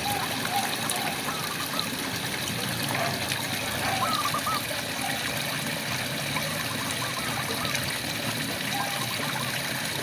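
Steady rain with frogs calling over it: short warbling trill-like calls recur every second or two above the even hiss of the rain.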